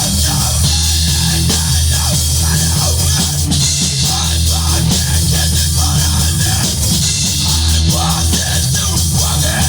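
Loud rock band playing, with distorted guitars, bass and a drum kit with crashing cymbals.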